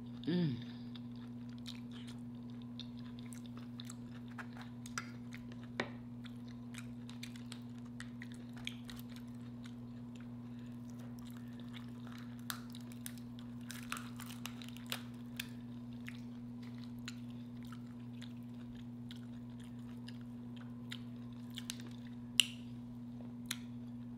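A person chewing a large mouthful of food close to the microphone, with scattered short wet mouth clicks and smacks. A steady low electrical hum runs underneath.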